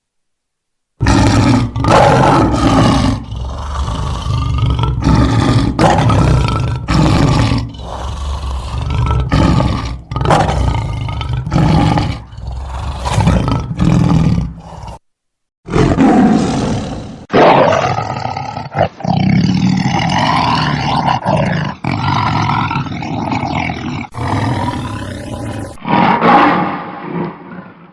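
Big cat roaring and growling: a run of loud calls about once a second, then, after a short break about halfway, a second run of longer calls that waver in pitch.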